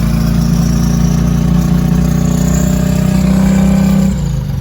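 Turbocharged 5.3 L LS V8 in a Dodge Grand Caravan running steadily under load while knocking heavily as its bottom end fails. The engine note dips and sags briefly about four seconds in, then picks up again.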